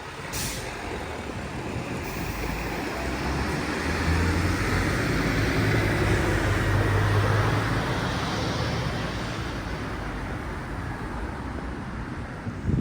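A motor vehicle driving past on the road. Its low engine hum and tyre noise build to a peak about halfway through, then fade away.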